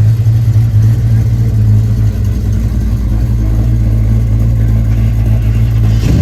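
A car engine idling steadily, a constant low hum without revs. A short knock comes just before the end.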